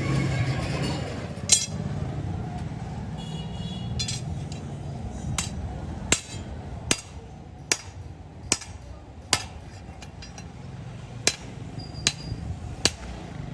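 Hammer striking metal: about a dozen sharp, ringing blows at a steady pace of a little over one a second, over a low workshop rumble.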